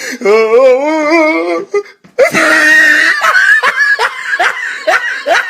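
A person laughing hard. A long wavering high-pitched laugh comes first, then a loud shriek about two seconds in, then a run of quick, choppy laughs.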